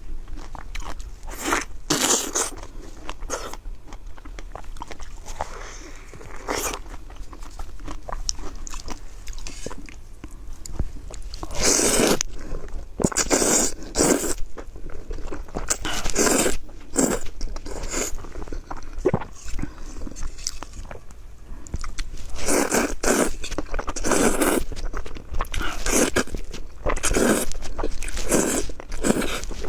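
Close-miked eating: irregular loud bites and wet chewing of food, coming in bunches of sharp crackly bursts.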